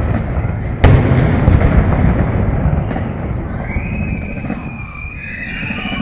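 A loud salute gun shot about a second in, a single sharp bang followed by a long rolling rumble that fades over several seconds. A thin high tone comes in over the tail near the end.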